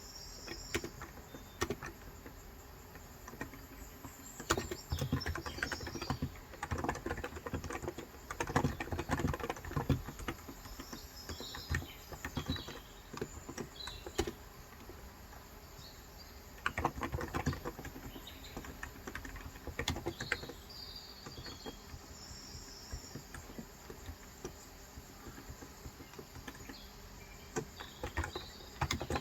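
Typing in bursts on a Cox Endeavor electro-capacitive (Topre-style) tenkeyless keyboard with 35 g switches, soft rapid keystrokes with pauses between runs, densest in the first third.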